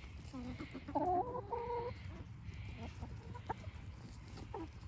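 Backyard hens clucking and calling, a cluster of calls about half a second to two seconds in, then a few short clucks near the end.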